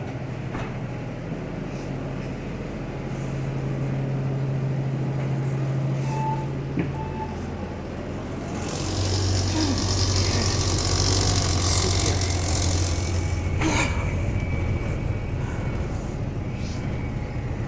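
Inside a city bus: the engine hums steadily, two short beeps sound about a third of the way in, and about halfway a long hiss of air comes as the engine note drops and settles lower, with a sharp click soon after.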